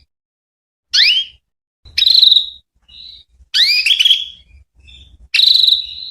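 Female canary calling: a string of short chirps about once a second, some sweeping quickly upward in pitch and others buzzy and held, the kind of call used to set male canaries singing.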